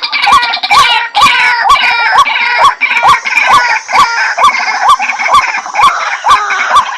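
White-breasted waterhen calling: a loud, fast run of repeated harsh croaking notes, about three a second, each with a short upward-hooked note.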